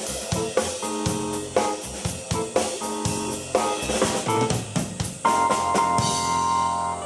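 Live keyboard and drum kit playing a rock jam: steady drum beat with cymbals under keyboard chords. About five seconds in the keyboard holds one long note, and the drums drop out near the end.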